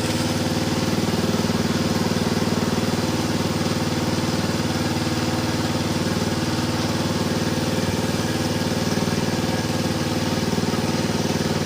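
A small engine running steadily at an even, unchanging speed, like an idle.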